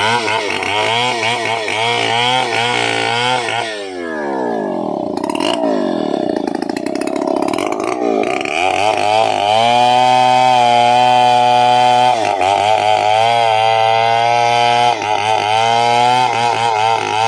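Vintage Stihl 070 two-stroke chainsaw engine revving up and down unevenly, then held at high revs for most of the second half, with a couple of brief dips.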